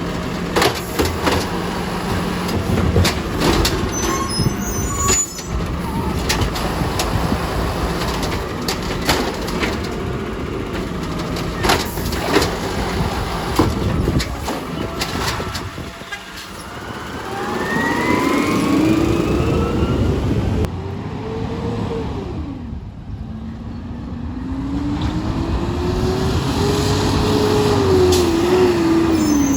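Yard-waste garbage truck at work: its engine running under a string of sharp knocks and clanks, then two long whines that rise and fall as the engine revs up and back down in the second half.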